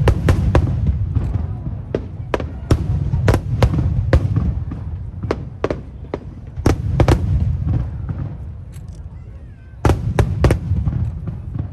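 Aerial fireworks going off in volleys: many sharp bangs and cracks one after another over a low rumble, in four clusters with short lulls between.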